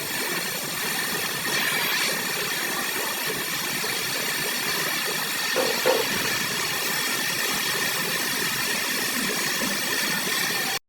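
A machine running steadily, with an even hiss and a high whine.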